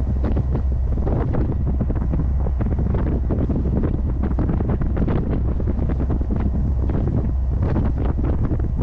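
Heavy wind buffeting the microphone of a moving open car, a steady low rumble broken by constant rough gusts that bury the engine and road sound.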